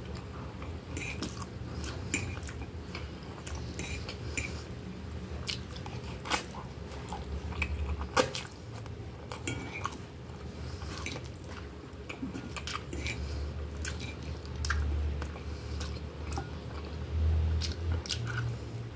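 Close-up mouth sounds of a person chewing a mouthful of soft baked instant noodles with melted cheese, with many short wet clicks.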